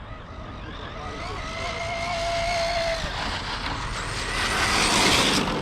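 Electric RC car driving on pavement: motor whine and tyre noise grow steadily louder as it comes closer, loudest near the end.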